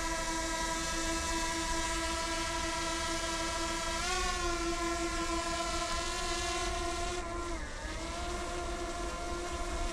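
Drone propellers hovering: a steady whine of several tones at once that rises slightly about four seconds in and dips briefly near eight seconds, over a low rumble.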